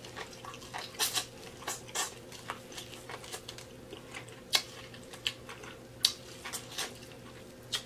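Close, wet chewing and lip smacking while eating soft, sauce-coated food, with irregular sharp mouth clicks; one of the loudest is about four and a half seconds in.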